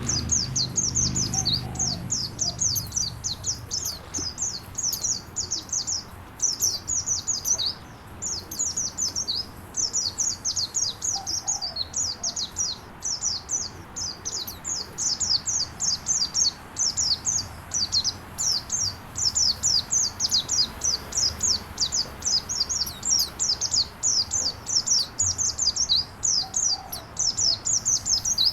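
A songbird singing masteran-style: a fast, near-continuous stream of short, high chirps, each sliding downward, many per second, with brief pauses between runs. Behind it lies a faint steady hiss of running water.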